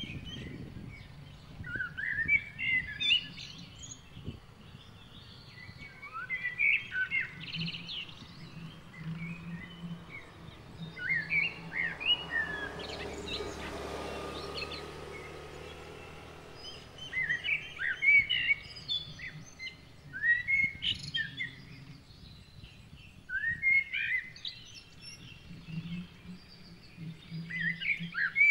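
Wild birds chirping in short clusters of quick, rising notes every few seconds. Around the middle a soft rushing sound swells and fades beneath them.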